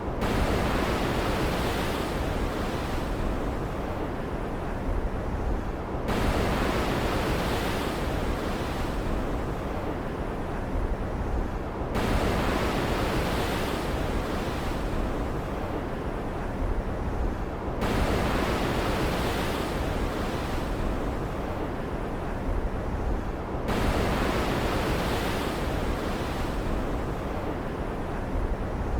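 Ocean surf on a stormy sea: a wave breaks and washes out about every six seconds, each surge starting suddenly and fading, over a steady low rumble.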